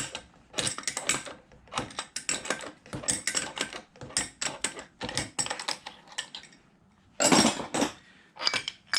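Blind bearing puller being tightened with a wrench to draw a scooter engine's crankshaft bearing out of its case: repeated bursts of quick metallic clicking, then two louder metallic scraping clunks near the end as the bearing works free.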